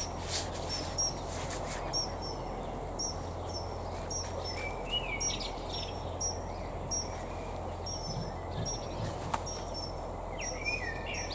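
A small bird calling over and over, a short high chirp about twice a second, with a couple of lower warbled phrases in between, over steady outdoor background noise.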